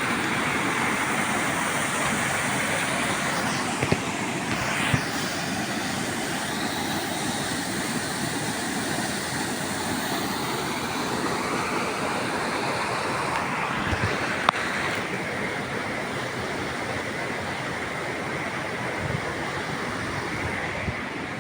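Waterfall rushing: a steady, even roar of falling water, with a few brief knocks or clicks.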